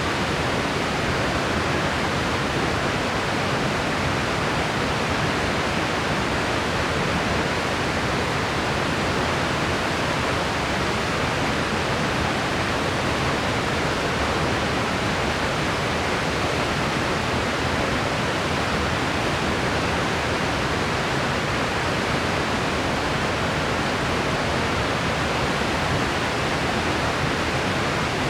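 Steady, unchanging white noise with a soft, full tone, weaker in the treble, like pink noise. No other sound rises out of it.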